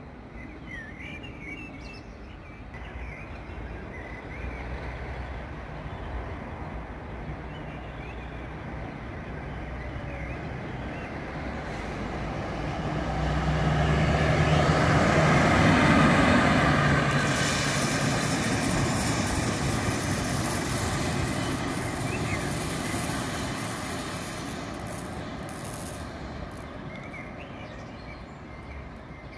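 Electric locomotive passing close by on the main line: its rolling and motor hum build up slowly, peak about halfway through, then fade as it moves away. Birds chirp briefly near the start and end.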